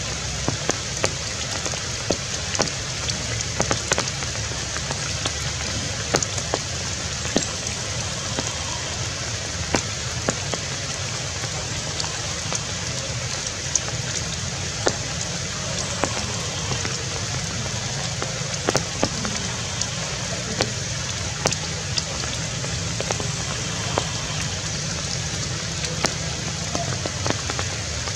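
Steady rain falling on tree leaves, a continuous hiss with sharp drops tapping at irregular intervals.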